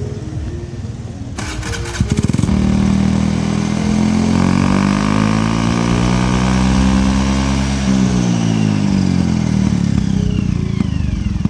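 Motorcycle fitted with a loud aftermarket open exhaust (knalpot brong), its engine revving up for several seconds and then dropping back. This is the illegally loud exhaust noise that police raids target.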